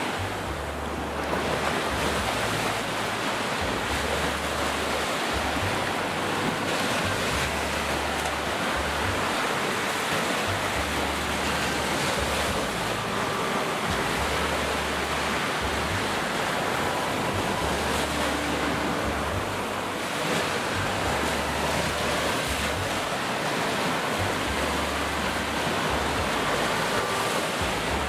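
Sea surf washing onto a beach, a steady rushing noise, with wind buffeting the microphone in low rumbles that come and go every few seconds.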